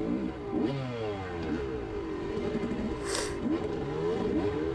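Two-stroke dirt bike engine revving up and down repeatedly as it is ridden hard through a race course, the pitch rising and falling with each throttle change. A short rush of hiss about three seconds in.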